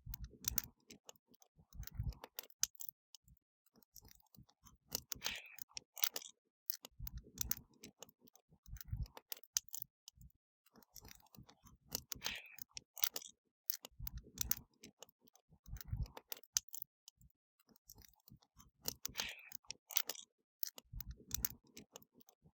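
Wood fire crackling: dense, irregular sharp snaps and pops of burning wood, with soft low thuds now and then. The same stretch of crackle repeats about every seven seconds.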